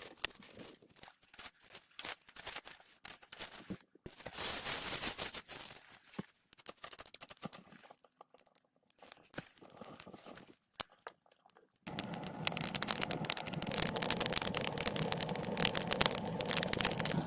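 Small wood fire crackling with sparse snaps and pops. About twelve seconds in the sound turns abruptly louder: a dense crackle over a steady rush.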